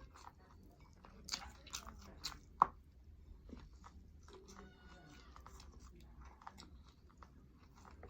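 A person eating, biting and chewing food close to the microphone, with a few sharp crunches in the first three seconds, the loudest about two and a half seconds in, then quieter chewing.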